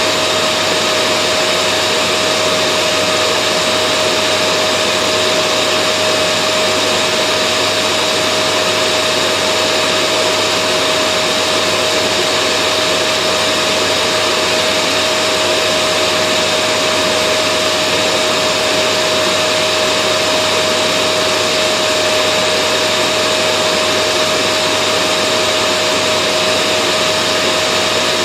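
Vacuum cleaner running continuously at a steady pitch, a constant airy rush with a steady hum in it and no change in speed.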